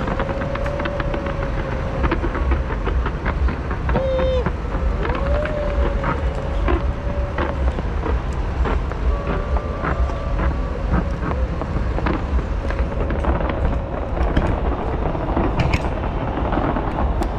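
Fireworks going off, with many sharp cracks and pops scattered through, over the noise of a large crowd and a constant heavy low rumble.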